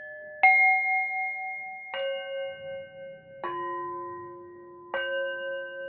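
Meditation music of struck bell tones, a new note about every second and a half, four in all, each ringing on until the next.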